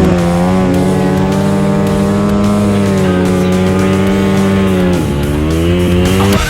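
A Yamaha WR250F's 250 cc single-cylinder four-stroke engine held at high revs, a steady high whine. About five seconds in the revs drop briefly, then climb again. Rock music plays underneath.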